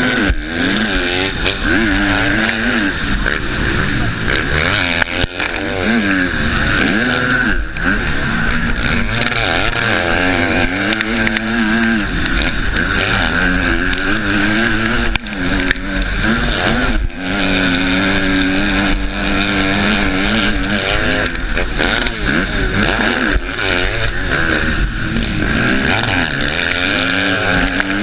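Husqvarna motocross bike's engine running hard, its note repeatedly rising and falling as the throttle is opened and closed around the track, with brief drops between pulls. A steady rush of wind and noise on the helmet-mounted microphone runs under it.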